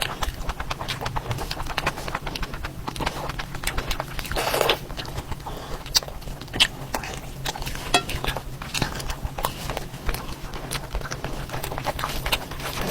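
Close-up chewing and lip-smacking of a person eating curry and rice in big mouthfuls, an irregular run of wet clicks and smacks.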